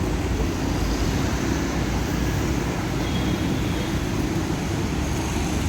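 Busy city road traffic: a steady, unbroken wash of engine and tyre noise.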